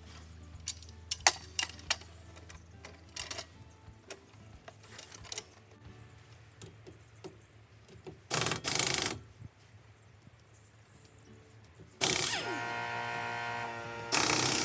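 Metal clinks and knocks of wheel nuts and tools being handled, then an air impact wrench firing in two short bursts about eight seconds in. Near the end the wrench's air motor runs steadily for about two seconds before another short burst.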